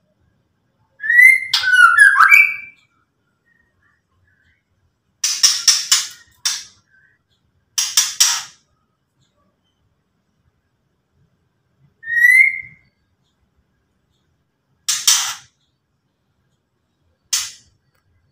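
White-rumped shama (murai batu) giving harsh, rasping 'ketrek' rattle calls in short separate bursts. The calls are mixed with a few rising whistled notes: a whistled phrase near the start and a single whistle about two-thirds of the way through.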